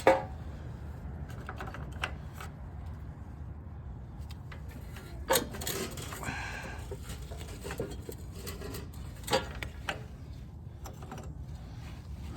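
Sharp knocks and clatter as a snowblower part is tapped and worked loose after its bolts are out. There are three louder knocks, one at the start, one about five seconds in and one about nine seconds in, with lighter clicks between them, over a steady low hum.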